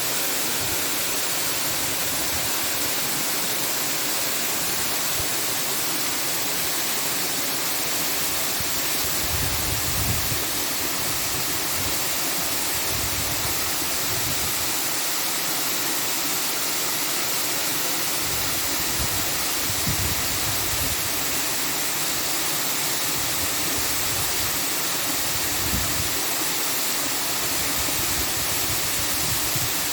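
Steady, even rushing noise like falling water, with a few brief low rumbles.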